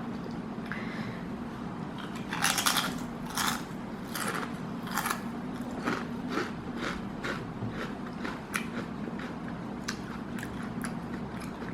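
Someone crunching and chewing potato chips close to the microphone. A few loud crunches come about two to five seconds in, followed by a run of softer chewing crunches.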